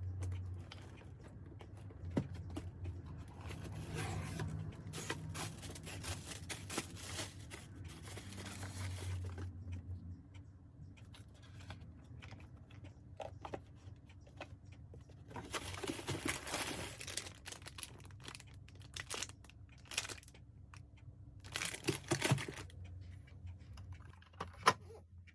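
Irregular scraping and rustling of tools and parts being handled, with scattered sharp clicks and knocks, over a faint steady low hum.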